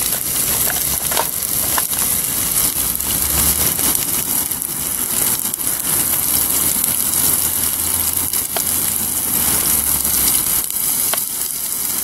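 Sausages sizzling in lard in a pan on a gas camping stove, a steady crackling hiss, with the scattered taps of a knife cutting mushrooms on a wooden chopping board.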